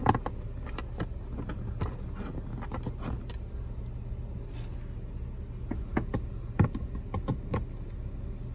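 Jeep Wrangler JK's engine idling as a steady low hum heard inside the cab, under scattered light clicks and taps of a screw and a drill being handled on the plastic dash.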